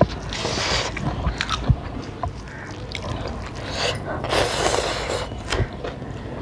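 Close-miked eating sounds: chewing, mouth clicks and small smacks while eating rice and greens by hand. There are two longer noisy stretches, about half a second in and again around four and a half seconds.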